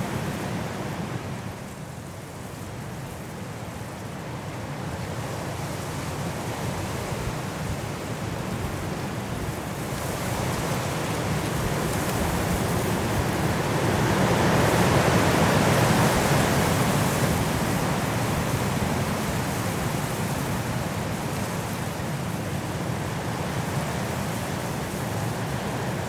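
Strong wind blowing through forest trees in a snowstorm: a steady rushing that dips about two seconds in, then builds to a loud gust midway and eases off.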